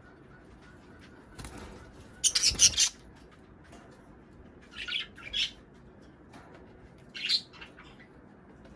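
Budgerigars chirping and squawking in short bursts, the loudest cluster about two seconds in and shorter ones around five and seven seconds.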